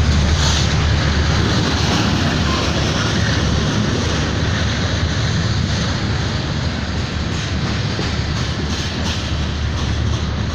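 Freight train tank cars rolling past close by: a steady rumble of steel wheels on the rails, with light clicks as the wheels cross rail joints, slowly easing in level.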